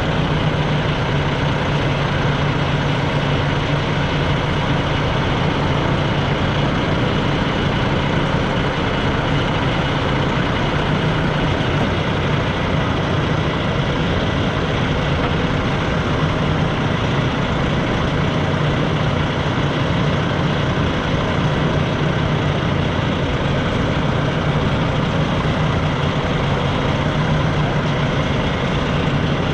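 Semi-truck diesel engine running steadily, with a strong low hum that does not change.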